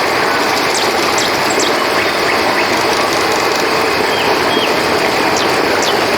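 Steady rush of flowing river water, with scattered short, high chirps that fall in pitch.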